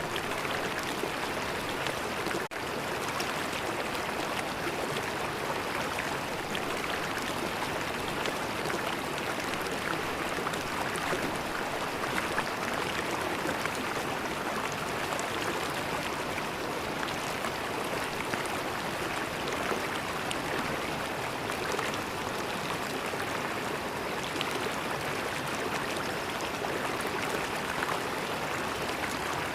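River water flowing and gurgling over stones in a steady, even rush, with a momentary dropout about two and a half seconds in.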